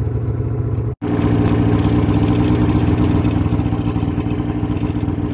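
Vehicle engine running steadily. About a second in the sound cuts out for an instant, then the engine carries on with a stronger, higher note.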